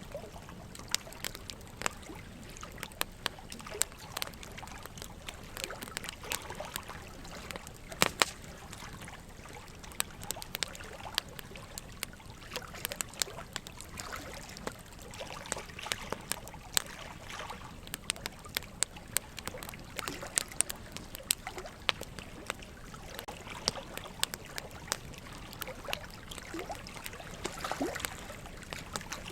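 Wood fire crackling with many irregular sharp pops, over a steady trickle of running water.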